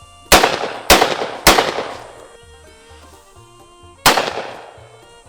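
Genesis Gen 12 semi-automatic 12-gauge shotgun firing four shots at clay targets: three in quick succession about half a second apart, then a fourth about two and a half seconds later, each with a short ringing echo.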